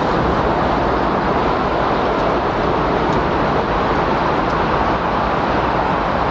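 Recorded windstorm ambience: a steady, even rush of wind.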